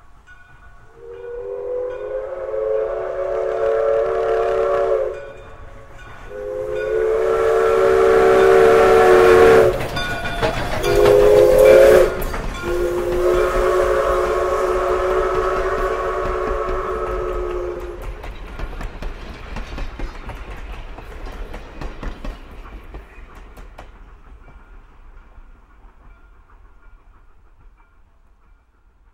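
Train whistle sounding a chord of several notes in four blasts, long, long, short, long: the standard grade-crossing signal. A rushing, clattering train noise swells in the middle, and the sound fades away over the last several seconds as the train passes.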